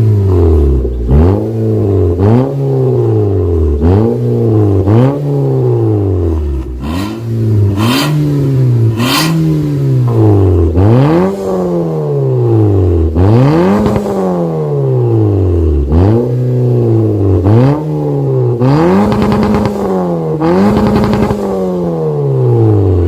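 Toyota Yaris engine through an aftermarket stainless catback exhaust with a remote-controlled valve, revved again and again in quick blips. The note rises and falls about every second and a half, with occasional sharp snaps among the revs.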